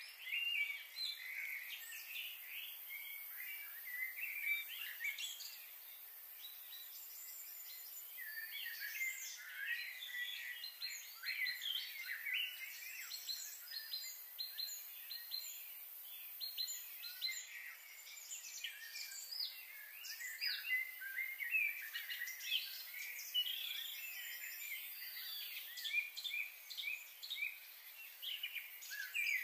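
Small birds chirping and calling, many short high calls overlapping, with a quieter stretch about six seconds in.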